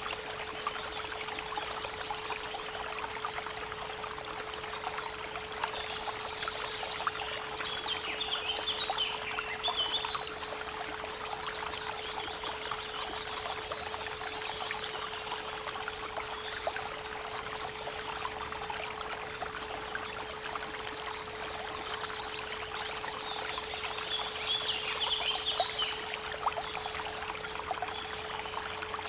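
A steady 432 Hz pure tone hums under the continuous rush of creek water. Birds sing over it: a chattering song about a third of the way in and again near the end, and a short high call that comes a few times.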